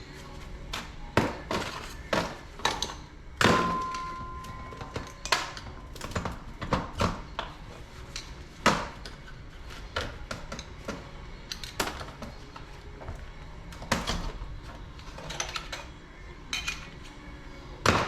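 Metal tools and loose parts of a dirt bike's rear suspension linkage knocking and clinking as they are handled and set down during disassembly. The knocks come irregularly, one about three and a half seconds in ringing briefly like struck metal.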